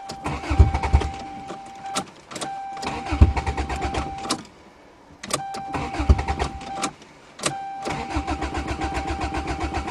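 A cold Toyota GTS being cranked over in four separate bursts of a few seconds each, with short pauses between them. The starter spins the engine quickly, with a steady high tone over each burst, but the engine never catches. The owner blames its lack of an exhaust, saying cars with no back pressure are hard to start in the cold.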